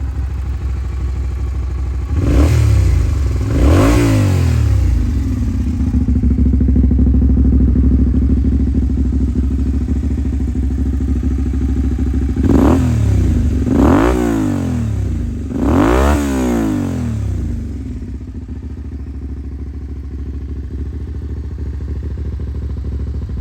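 Suzuki SV400S 400 cc V-twin with a KENZ SPORTS aftermarket muffler idling and being revved in short throttle blips: two blips a few seconds in, then three more in a row past the middle, each rising and falling quickly, before settling back to a steady idle.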